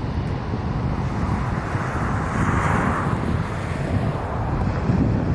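Outdoor field recording with wind buffeting the microphone as a low rumble, and a rushing swell that builds to a peak about two and a half seconds in and then fades.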